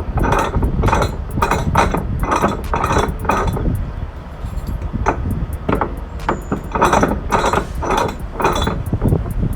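Repeated sharp metallic clanks, roughly two a second, with a short pause near the middle, over a steady low rumble.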